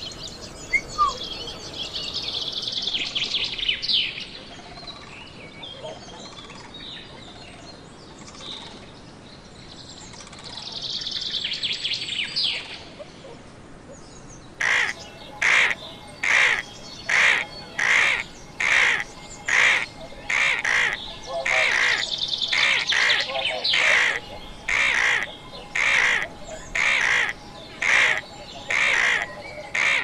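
Bird calls: two short spells of high chirping, then from about halfway a long, evenly spaced series of loud calls, about one and a half each second.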